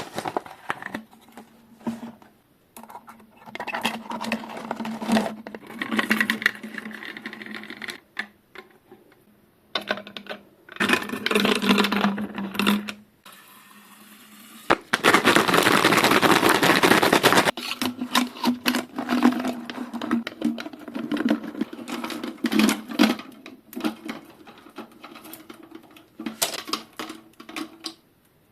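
A bicycle chain being washed and degreased: the metal links clinking and rattling as they are handled, over a low steady hum, with two hissing sprays of a couple of seconds each, the longer one about halfway through.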